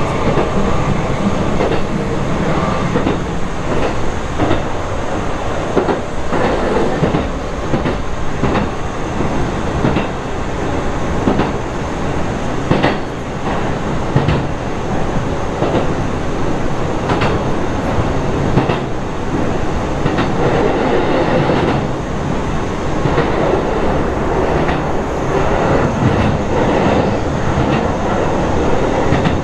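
Hankyu commuter train running at speed over a river bridge, heard from inside the car: a steady rumble with the wheels clacking over rail joints again and again.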